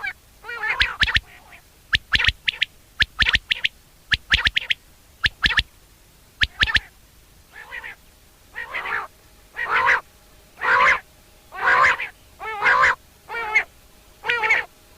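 Common quail calling: quick short notes grouped in twos and threes. From about halfway through, longer nasal calls come about once a second.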